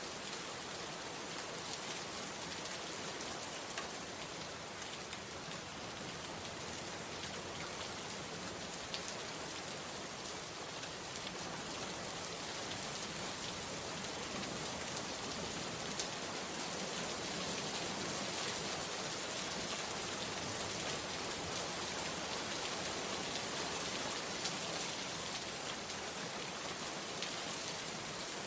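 Steady rain falling: a dense, even hiss with scattered sharper drop taps.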